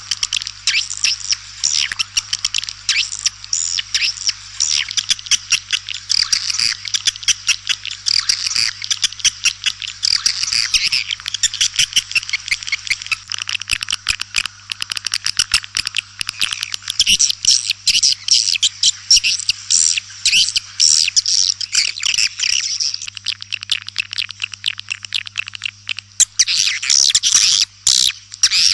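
Swiftlets twittering: a dense, continuous chatter of rapid high-pitched chirps, the kind of swiftlet calling sound played to lure the birds into a nesting house.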